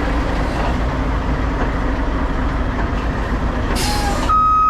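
Mack truck's diesel engine running steadily. Near the end there is a short burst of air hiss from the brakes releasing, and then the reversing beeper starts as the truck backs up.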